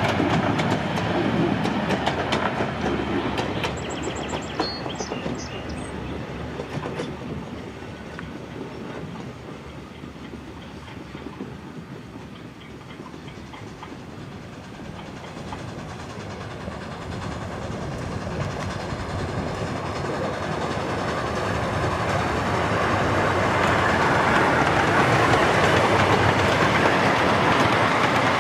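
A 16-inch gauge grand scale steam train running on its track, the wheels clicking over the rail joints. The sound fades away partway through, then builds again as a train draws near.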